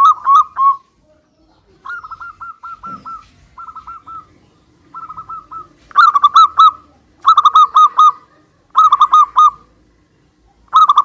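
Zebra doves (perkutut) singing in answer to each other: short phrases of rapid, bouncing staccato coos. Fainter phrases come in the first half, then louder phrases about once a second and a half from the middle on.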